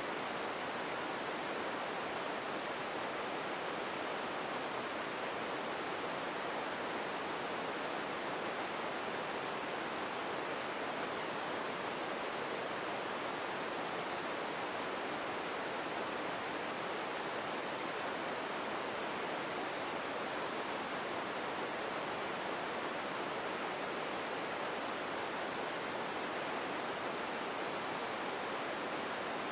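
Empty ambience noise: a steady, even hiss with no distinct events, unchanging throughout.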